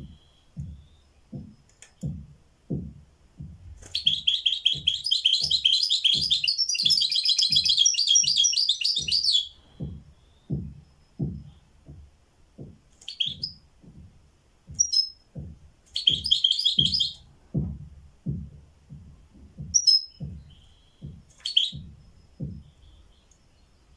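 A caged songbird singing: one long, rapid trilling phrase of about five seconds, then several short phrases and single calls. Under it runs a soft low thud repeating evenly, roughly every 0.6 s.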